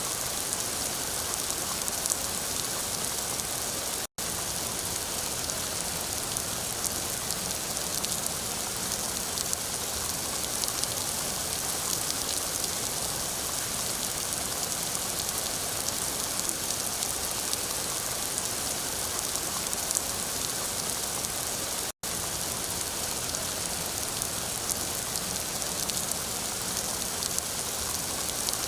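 Steady rain falling and pattering on a surface, a dense even hiss of many drops. It cuts out to silence for an instant twice, about four seconds in and again near the end.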